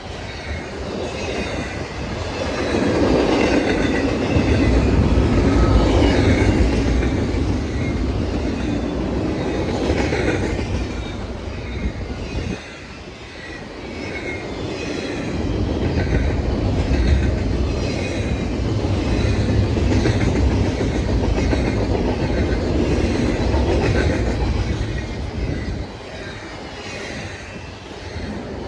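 Train rolling past, a steady rumble of wheels on rail with rhythmic clicking over the rail joints. The sound drops abruptly about halfway through and then builds up again.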